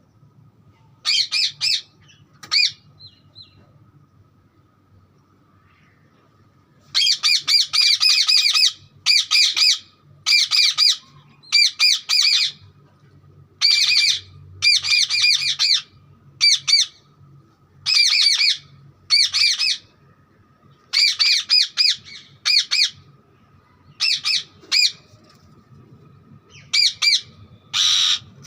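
Green parrot squawking in a series of harsh calls, each a rapid run of notes lasting about a second, with short pauses between them; after two brief calls near the start it is quiet for a few seconds before the calls come thick and fast.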